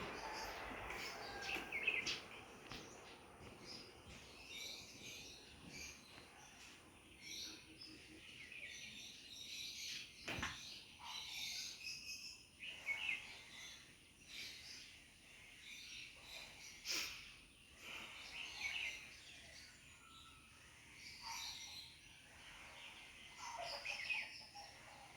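Faint birds chirping in short scattered calls over a low steady background, with a couple of sharp clicks.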